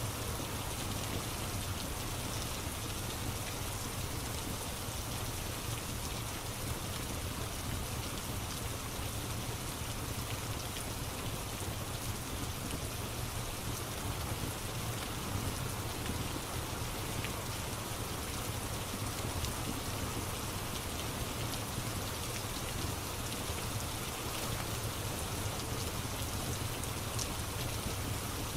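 Steady rain falling on a surface, an even hiss with a few faint scattered ticks.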